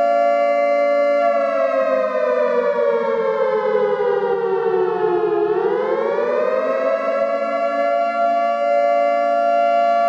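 Nuclear alarm siren, a civil-defence-style wail sounding several pitches at once. It holds steady, then from about a second in slowly slides down in pitch for some four seconds, swings back up more quickly, and holds steady again near the end.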